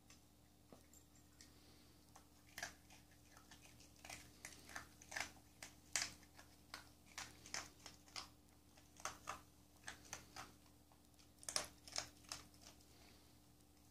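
A dog crunching dry kibble: a run of irregular crisp crunches starting a few seconds in and stopping near the end.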